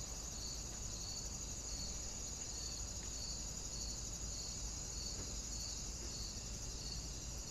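Crickets chirping steadily, with a regular pulse about every half second over a continuous high trill and a low hum underneath.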